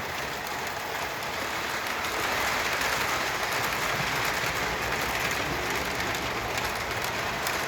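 Lionel 6-8859 Conrail Rectifier O-gauge electric locomotive running steadily at low throttle around the layout, pulling a string of freight cars, with a smooth, even sound of motor and wheels on the rails that grows a little louder about two seconds in.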